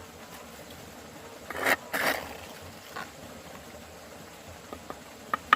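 Two short, loud scrapes about one and a half and two seconds in, a fainter one a second later, then a quick run of sharp taps near the end, about five a second, from hand work on the pond's edge.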